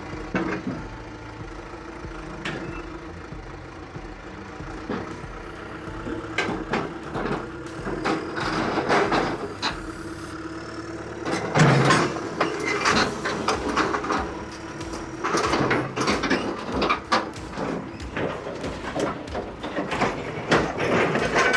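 Old John Deere crawler bulldozer engine running steadily while its steel tracks clank and metal knocks against metal as it is driven onto a gooseneck trailer. The clanking grows busier about halfway through, with the loudest knock just before the middle.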